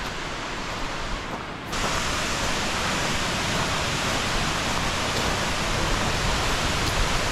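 Waterfall pouring, a steady rushing of falling water that jumps louder and brighter about two seconds in.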